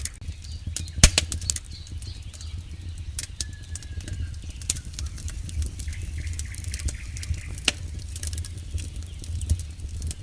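Wood campfire crackling, with irregular sharp pops and snaps, the loudest about a second in, over a steady low rumble of the burning fire.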